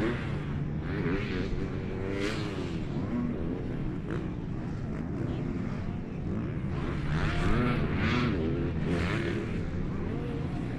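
Motocross bike engines racing on the track, revving up and falling back over and over as the riders work the throttle. They get louder for a few seconds about two-thirds of the way through.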